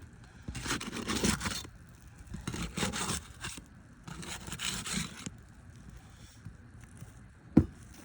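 A thin steel flat bar scraping against and sliding under roof shingles in three strokes of about a second each, then one sharp knock near the end.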